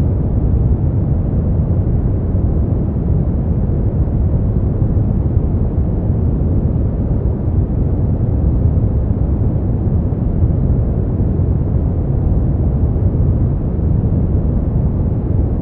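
Steady synthetic noise for sleep, sold as white noise but deep in tone: most of its energy is low, with little hiss on top. It is constant throughout, with no changes or events.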